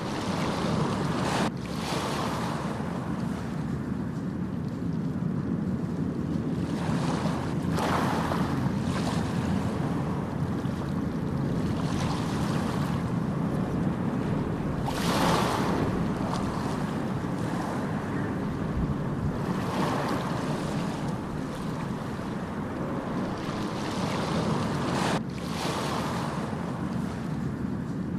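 Ocean surf: waves break every few seconds over a steady low rush of water. The sound dips sharply and briefly twice, near the start and near the end.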